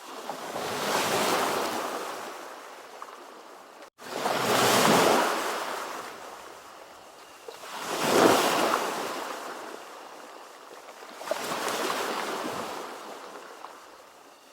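Ocean waves washing ashore, four surges that swell and fade about every three and a half seconds. A brief dropout to silence comes just before the second surge.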